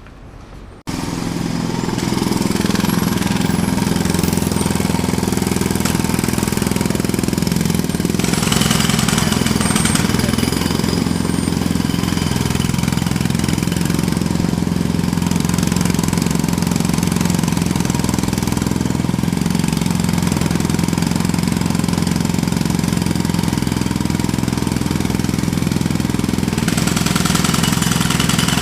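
Jackhammer hammering, starting abruptly about a second in and then running on steadily and loud, with a low engine hum under the rattle.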